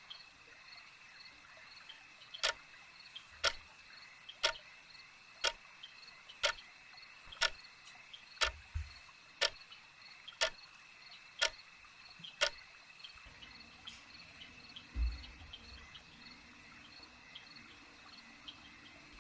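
Crickets chirping steadily, with a clock ticking once a second for about ten seconds, starting a couple of seconds in.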